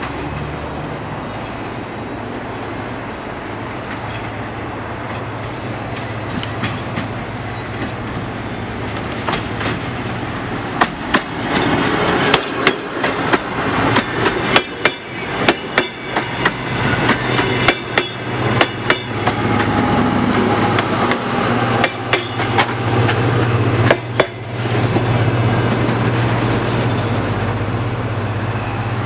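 Diesel passenger train approaching with its engine running and growing louder, then passing close by with a rapid clickety-clack of wheels over the rail joints and a rush of rolling noise. The beats stop abruptly near the end and the engine hum carries on as the train pulls away.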